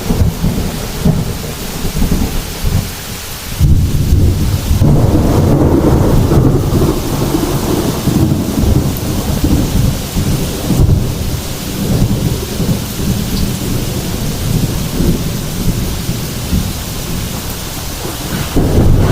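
Heavy rain falling steadily with deep thunder rumbling through it. A loud new roll of thunder comes in about four seconds in, and the rumble swells again near the end.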